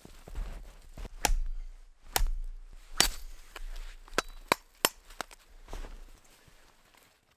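Wood being chopped: a series of sharp, irregular blade strikes into wet logs, about seven in a few seconds.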